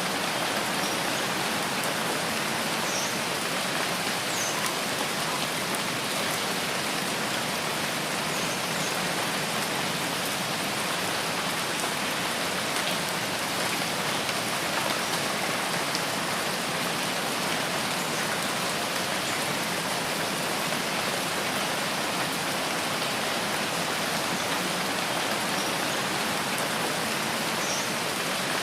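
Steady rain falling in a forest, an even, unbroken hiss of drops on leaves and ground, with a few faint, short high chirps now and then.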